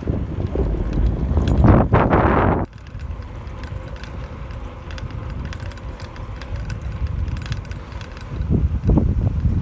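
Wind buffeting the microphone on a moving bicycle, heavy for the first two to three seconds and then easing, with the bicycle's light mechanical ticking and rattling underneath.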